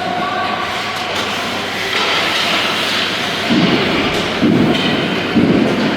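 Steady, loud game noise of a youth team scrimmage in a large hall, with three louder low bursts in the second half.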